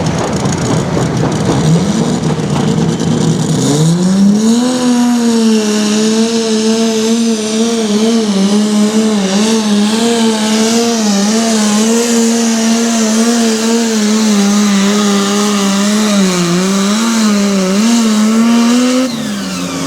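Light limited super stock pulling tractor's diesel engine revving up sharply about four seconds in and held at high revs through a pull, its pitch wavering up and down, with a high whistle building over it. The revs drop off just before the end.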